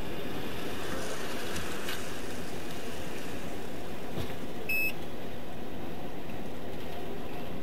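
Steady low hum of a parked police patrol car's idling engine, with one short electronic beep about five seconds in.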